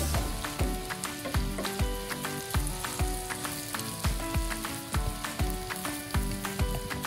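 Pork belly with onion, garlic and chili sizzling steadily in hot oil in a pan as it is stirred. Background music with a steady beat plays along.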